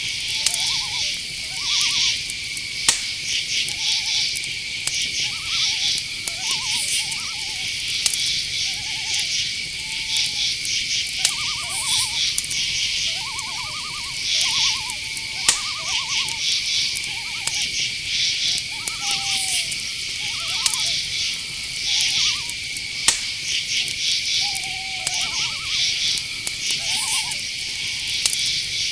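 Night-forest ambience: crickets and other insects trill steadily and chirp in quick pulsing bursts, while short, lower hoot-like calls repeat about every second throughout. A few faint clicks come at scattered moments.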